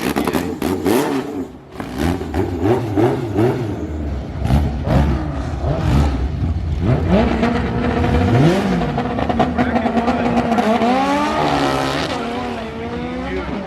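Honda drag cars' engines revving hard in quick up-and-down bursts at the start line, then launching and accelerating down the strip, the engine note climbing and dropping back with each gear change.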